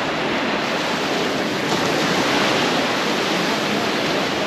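Ocean surf washing onto a beach: a steady rushing noise that swells a little about two seconds in.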